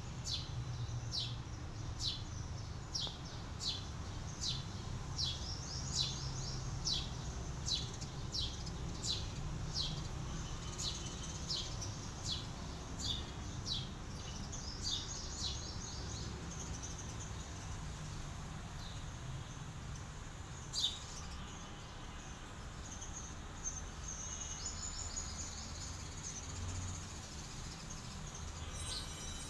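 A bird calling a short, high, falling chirp over and over, about three every two seconds, through the first half; later come a few brief bits of other bird song and a single click, over a steady low outdoor rumble.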